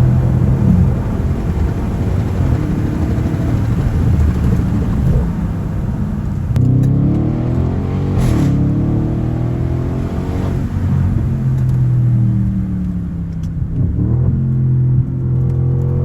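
Straight-piped twin-turbo 4.0-litre V8 of an Audi A8L under way. The engine note climbs under acceleration from about six and a half seconds in and drops sharply at a gear change about eight seconds in. It then eases off and falls, and climbs again near the end.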